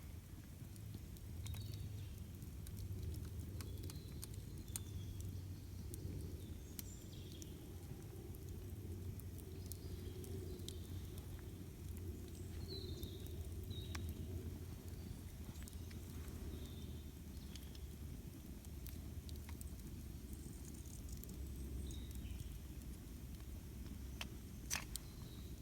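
Campfire burning with sparse crackles and pops over a low steady rumble, one pop louder near the end. Faint short bird chirps come through now and then.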